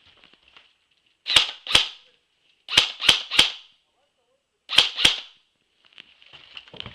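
Airsoft gun firing seven sharp shots in three short bursts: two, then three in quick succession, then two more.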